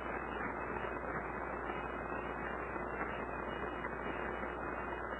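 Steady background hiss with a low hum underneath: room tone with no distinct event.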